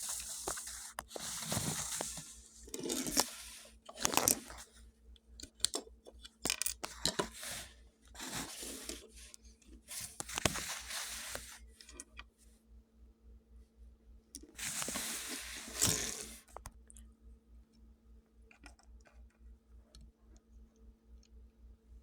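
Rustling and crinkling of plastic with small sharp clicks, typical of Lego pieces and their packaging being handled. The rustling comes in several short spells in the first half and once more about two-thirds of the way through, leaving only sparse clicks near the end. A faint steady hum runs underneath.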